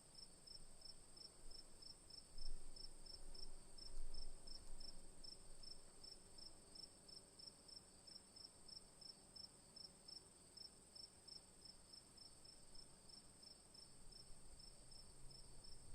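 Crickets chirping in an even rhythm, about two to three chirps a second, over a continuous high insect drone. Two low rumbling bumps stand out about two and a half and four seconds in.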